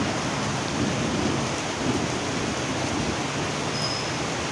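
Steady rain falling: a dense, even hiss with a low rumble underneath.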